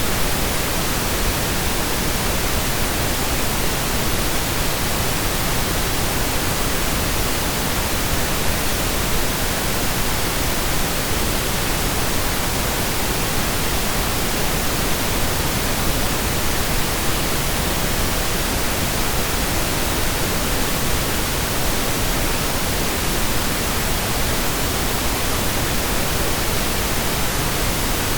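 Synthesized pink noise: a steady, even hiss, like steady rain or a waterfall heard from indoors, with equal energy in every octave and no change or events.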